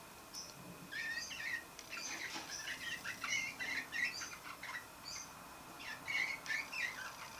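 Juvenile male roller canary warbling his early, unformed practice song: quick, scratchy chirps and twitters that start about a second in, with a short break around the middle.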